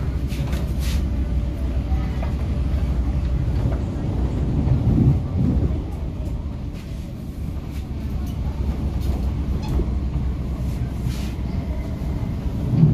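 Inside the carriage of an MTR K-Train running at speed: a steady low rumble of wheels on rail. It swells heavier about five seconds in and again near the end, with a few faint clicks.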